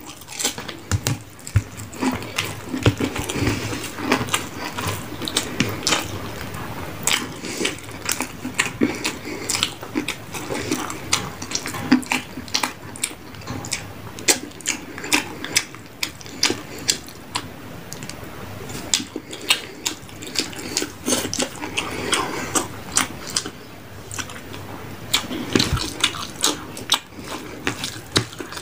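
Close-up eating sounds of a rice-and-fish-curry meal: wet chewing and mouth smacking, with many quick clicks and crunches all the way through.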